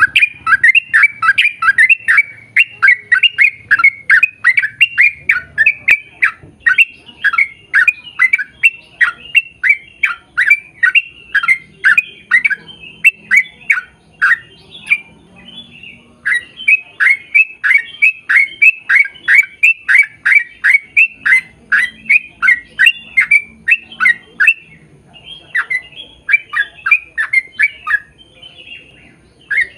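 A bird calling over and over in rapid, short, sharp calls, several a second, in long runs broken by two short pauses.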